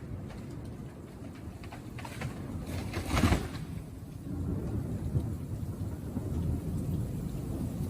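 Storm noise: a steady low rumble with rain, swelling louder briefly a little over three seconds in.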